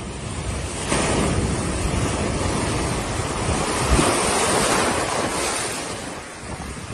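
Rushing, surging floodwater: a loud even rush that swells about a second in and fades near the end.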